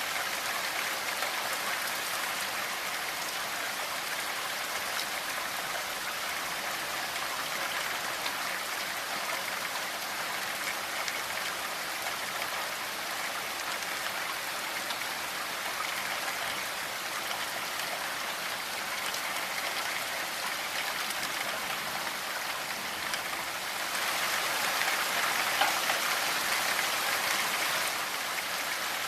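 Steady rainfall: an even hiss of rain with fine patter of drops on a surface, growing a little heavier for a few seconds near the end.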